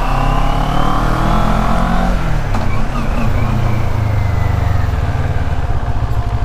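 CFMOTO 400NK motorcycle's parallel-twin engine, heard from the rider's seat, picking up revs for the first two seconds, easing off, then running at low revs with a steady pulsing near the end.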